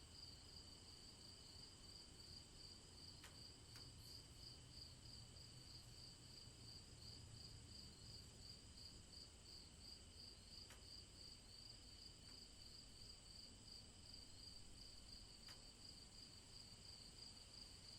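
Faint, steady chirping of crickets, an even rapid pulse that keeps going, over a faint low rumble.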